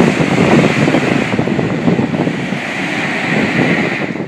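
Freight train of open box wagons rolling past on the rails: a loud, steady rumble of wheels with a hiss above it, cutting off suddenly near the end.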